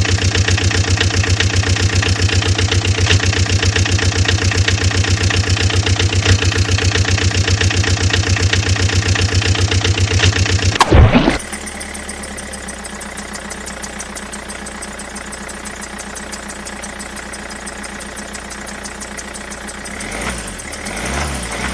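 A motor running with a rapid, even chugging pulse. About halfway through, a brief loud burst, then it runs on quieter and steadier, growing louder again near the end.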